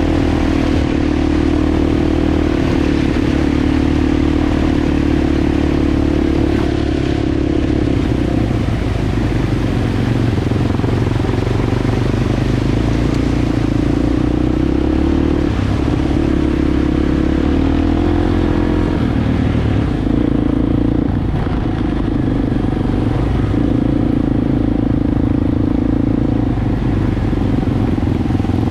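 Enduro motorbike engine running while under way, its pitch dropping and rising several times.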